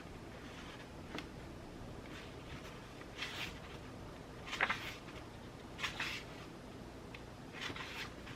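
Pen-and-paper journaling sounds: several short scratches and rustles a second or so apart, the loudest about halfway through, over a steady faint background hiss.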